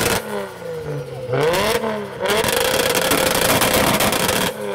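A modified car engine being revved hard and held at high revs. It drops back about a quarter second in, blips up briefly and falls again, then is held high from about two seconds in until it falls away near the end.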